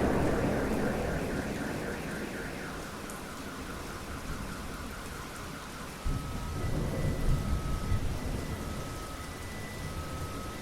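Steady rain with thunder: a rumble dies away over the first few seconds, and a second low rumble breaks in suddenly about six seconds in. Faint beeping tones alternating between two pitches repeat in the background through the second half.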